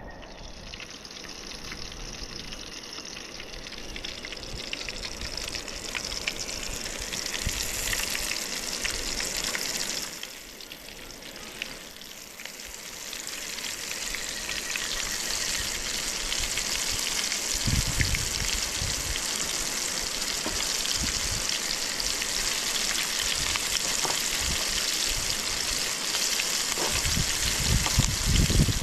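Pieces of jundiá catfish frying in hot oil in a pan, a steady sizzle that drops off for a few seconds about ten seconds in, then builds back up, with a few low knocks near the end.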